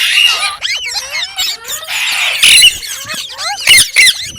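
Pet green parrot chirping and squawking in a quick run of short calls that slide up and down in pitch, with a few louder, harsher screeches midway and near the end.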